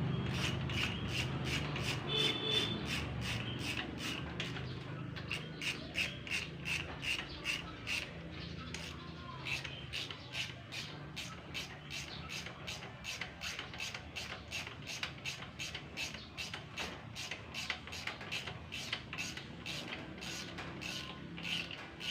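A hand tool working on metal in a steady rhythm of short rasping strokes, about two to three a second, over a low background hum.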